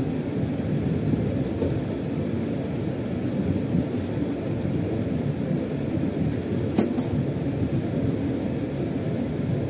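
Steady rumble of a freight train running along the track, heard from inside the locomotive's driver's cab. Two or three brief high-pitched chirps come about two-thirds of the way through.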